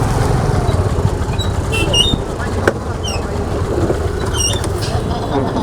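Scooter running along a road, a steady low rumble and buffeting under the ride. A few short high chirps come through, and a single sharp click sounds about midway.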